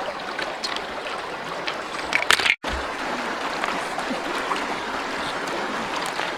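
Steady rush of running stream water, with a few light knocks and splashes a little over two seconds in and a sudden break in the sound just after.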